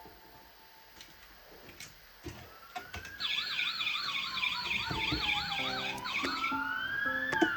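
Electronic police-style siren, as from a toy police car: after a few quiet seconds with light clicks, a fast warbling yelp starts about three seconds in over a slower wail that falls, rises again and falls. A sharp click comes near the end.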